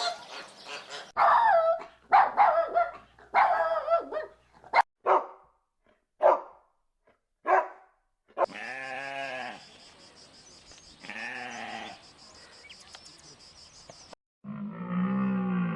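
A series of animal calls cut together. First a quick run of calls, then four short single calls about a second apart, then two long drawn-out calls, and a lower-pitched call near the end.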